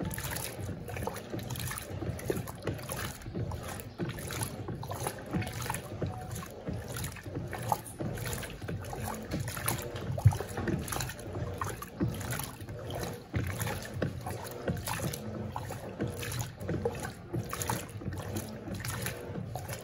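Electrolux Turbo Compacta 7 kg (LTC07) top-loading washing machine agitating a load of rugs at low water level: a steady motor hum under repeated swishes of water and fabric being churned.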